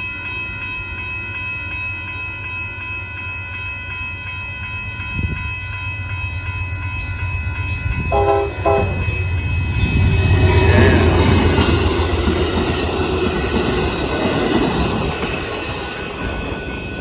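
Amtrak passenger train passing a road crossing. A crossing bell rings steadily, and about eight seconds in the locomotive sounds a short horn blast. Then the train goes by with a loud rumble that peaks a few seconds later and slowly fades.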